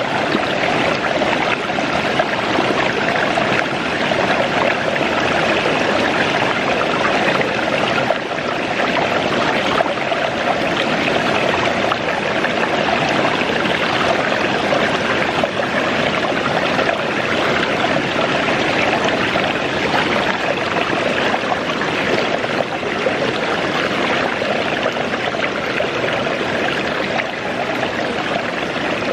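Waterfall and its stream rushing steadily.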